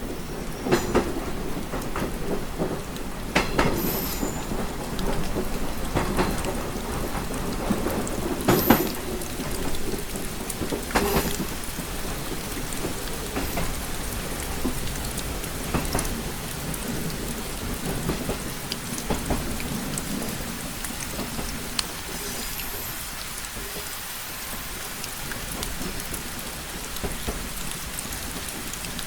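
Steady rain on a window, with scattered heavy drops tapping sharply on the glass, over a low steady rumble. A deeper rumbling swells through the first half and fades out about halfway through.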